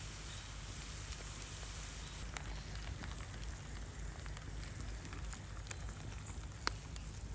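Wood campfire crackling with scattered sharp pops, one louder pop near the end, over a steady low rumble and hiss.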